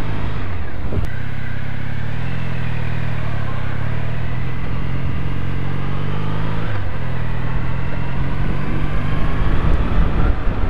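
Triumph Bonneville T100's air-cooled parallel-twin engine running under way, its pitch climbing as it accelerates and then dropping sharply about seven seconds in as it shifts up. Wind noise on the microphone grows near the end.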